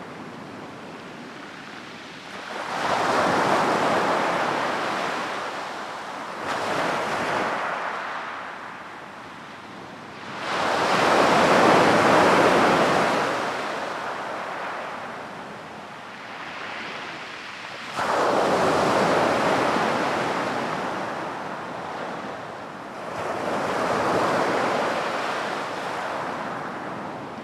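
Sea waves breaking on a beach, one after another: about five surges of rushing surf, each swelling quickly and fading over a few seconds, the loudest about ten seconds in.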